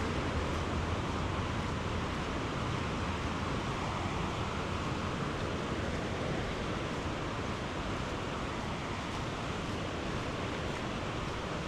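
Steady rushing of a swollen, fast-flowing river in flood.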